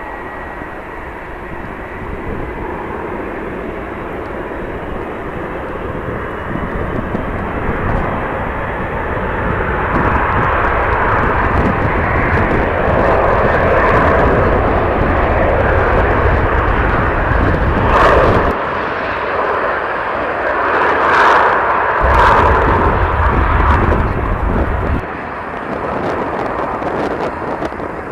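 Jet airliner passing, its engine noise building to a loud, steady rush for several seconds, with wind buffeting the microphone in gusts.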